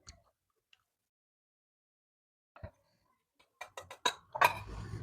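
Close-up eating sounds: a quick run of sharp clicks about three and a half seconds in, followed by a louder, noisy stretch near the end.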